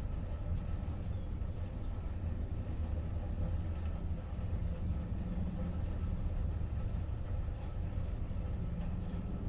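Outdoor ambience in light rain: a steady low rumble with a few faint scattered drip-like ticks.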